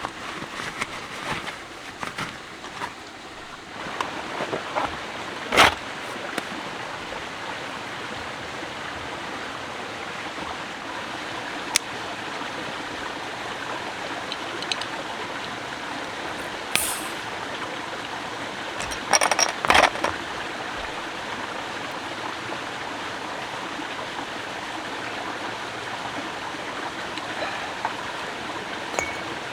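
Steady rushing noise, with a few sharp clicks and knocks, the loudest a little after five seconds in and a cluster around twenty seconds in.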